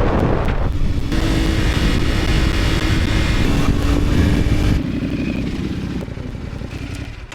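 CFMoto 450SS parallel-twin engine running, a steady engine note under wind rush that settles in about a second in. The sound drops off about five seconds in and fades out near the end.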